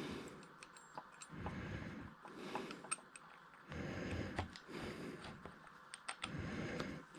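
Hands handling small metal parts at a workbench: scattered light clicks and knocks with intermittent rustling.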